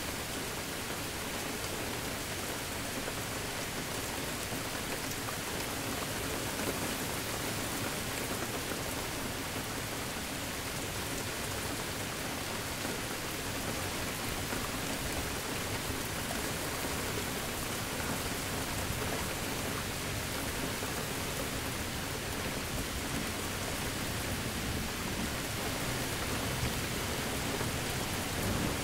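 Steady, even rain falling on surfaces.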